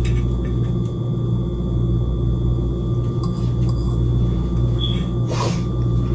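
Steady low machine hum with a faint high whine, like a kitchen appliance running, and one brief rustle about five seconds in.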